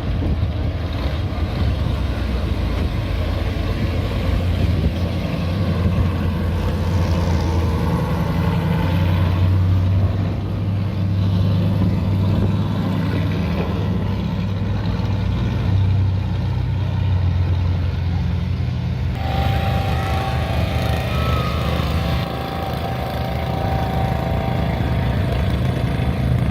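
Car engines running as vehicles pull out and drive past one after another, a steady low engine note that swells and fades; about two-thirds of the way through the sound changes suddenly and a thin steady whine joins in.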